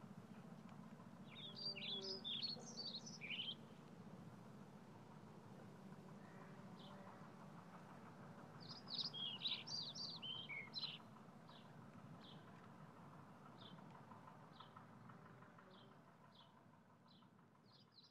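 Faint outdoor birdsong: two brief bursts of quick twittering, then a single high chirp repeated about once every second or less, over a low steady hum.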